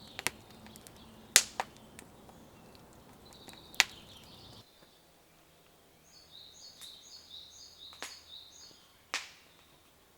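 A few sharp clicks and knocks, the loudest sounds, with a small bird singing a run of short high chirps in the second half.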